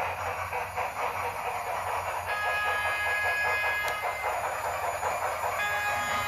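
Steam locomotive sound effects from a Big Boy model train: steady chuffing and hiss, with a multi-tone whistle sounding about two seconds in and again near the end.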